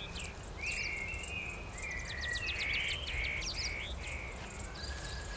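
Several small birds chirping and trilling, many short calls and quick falling notes overlapping, over a faint steady low rumble.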